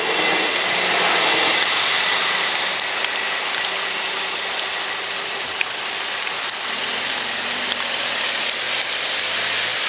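A regional passenger train passes over the level crossing, its wheels and running gear rushing past loudest in the first two seconds and then fading. A steady hiss of rain and tyres on the wet road carries on after it.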